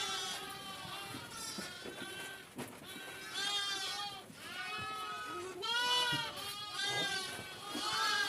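Several goats and sheep of a herd bleating, many calls overlapping, some higher and some lower.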